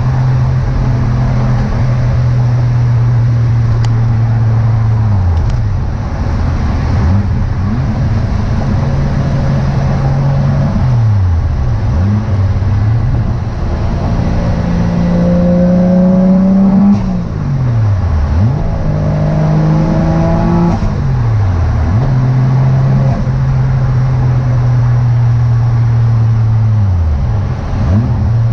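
Toyota 1JZ-GTE VVTi turbocharged inline-six in a Nissan 240SX S13, driving at a steady cruise. Its revs drop sharply and recover several times, and climb under acceleration about halfway through.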